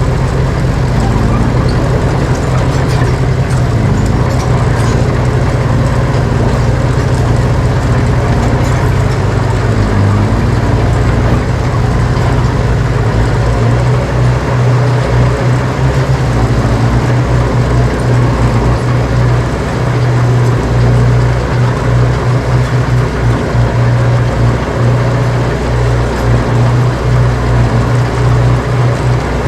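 Heavy diesel engine of earthmoving machinery running steadily, with a brief dip and recovery in engine pitch about ten seconds in.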